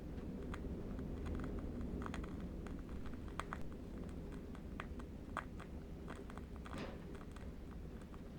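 Faint, irregular crackling of a burning candle wick, several small clicks a second, over a low steady rumble of distant wind.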